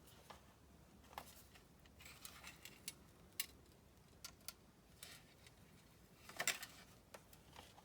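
Scattered light clicks and rustles of small craft materials being handled at a worktable, with a louder cluster of clicks about six and a half seconds in.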